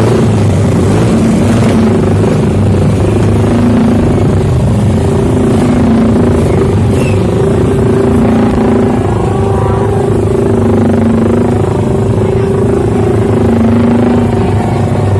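Motorcycle engine running steadily at idle, loud and close, with a slight slow rise and fall.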